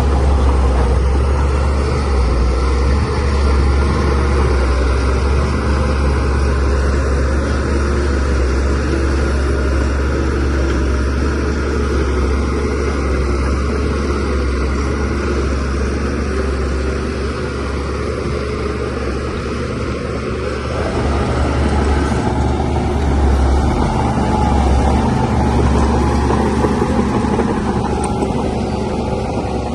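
DH17C3 Pro bulldozer's diesel engine running with a loud, deep, steady drone. It swells louder about 22 seconds in, then eases off again near the end.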